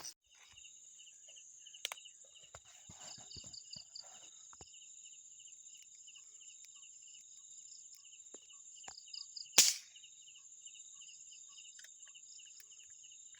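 Night insects, crickets among them, trilling steadily in fast pulsing chirps. A single sharp, loud snap cuts through about ten seconds in, with a few faint rustles near the start.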